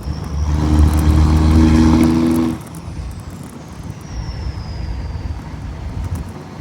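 Nathan Airchime P3 three-chime train horn on a big rig, sounded in one steady chord of about two seconds that cuts off sharply. The truck's running rumble carries on underneath and afterwards.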